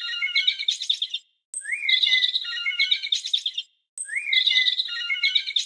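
A songbird singing the same chirping phrase three times, each about two seconds long and opening with a rising note followed by quick notes, with dead silence between the phrases.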